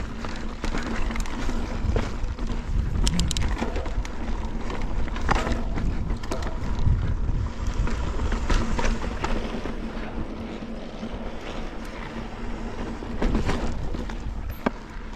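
Mountain bike riding over slickrock: tires rolling on bare sandstone with scattered clicks and knocks from the bike rattling, under a steady rumble of wind on the microphone.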